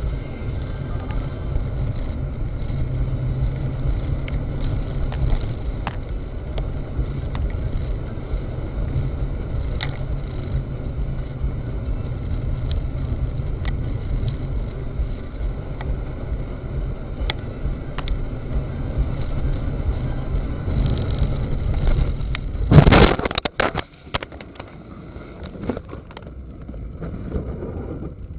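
Steady low rumble of a car driving, heard from inside the cabin, then late on a sudden loud crash with clatter, a collision, after which the rumble drops away.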